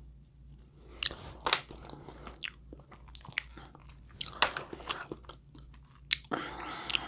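Close-up eating of a seafood boil: crab shells cracking and crunching, with wet chewing and smacking between. Several sharp cracks stand out, a rough second or more apart.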